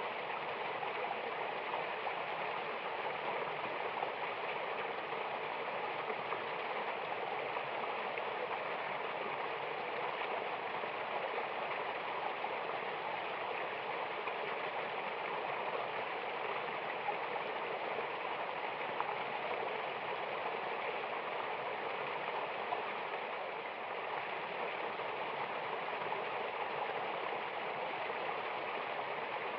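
Mountain waterfall: a steady, even rush of flowing water.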